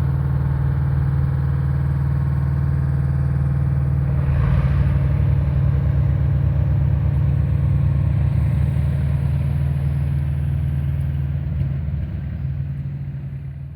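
An engine running steadily at a constant speed, loud and close, with a brief rush of noise about four seconds in; it tails off near the end.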